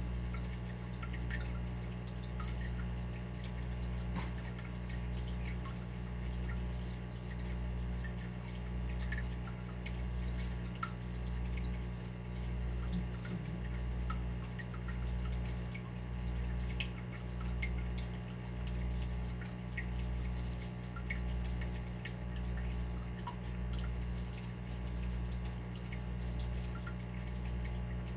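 Water dripping, with scattered small drops over a steady low hum that swells and fades in a slow, even rhythm.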